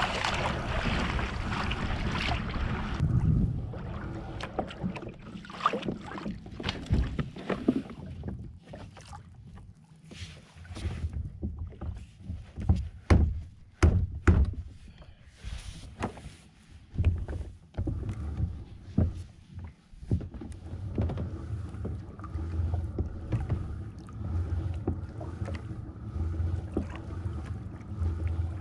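Pedal-drive fishing kayak on the water. A rushing noise cuts off abruptly about three seconds in. Scattered knocks and clunks of gear and hull follow, and in the last part a steadier low rumble.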